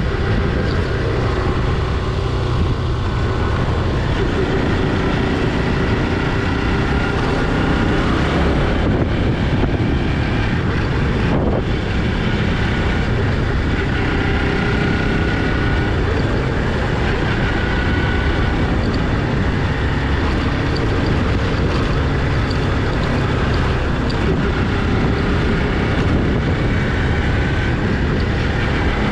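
Motorcycle running steadily while riding, its engine mixed with a continuous rush of wind and road noise.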